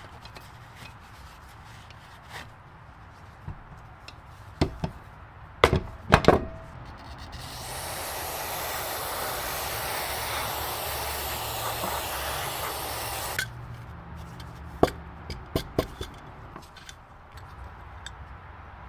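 Workshop handling knocks and clicks, then a steady hiss of about six seconds that cuts off, followed by more sharp clicks.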